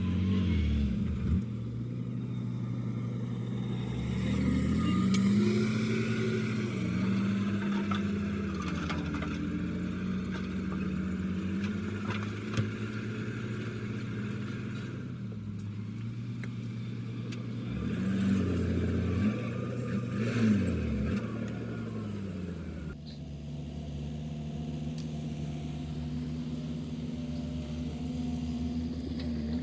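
Heavy diesel engine of earthmoving machinery running, its pitch rising and falling as it revs up and down, with a few short knocks. About 23 seconds in the sound changes abruptly to a steadier engine drone.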